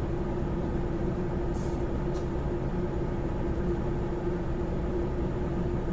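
Semi-truck's diesel engine running steadily, heard from inside the cab as a low rumble with a constant hum. Two brief faint hisses come about one and a half and two seconds in.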